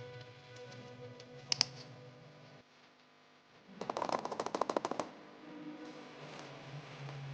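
Soft background music with a fast clattering rattle of small hard pieces lasting about a second midway, and a couple of sharp clicks before it: handling of a Kinder Surprise egg's plastic capsule and toy.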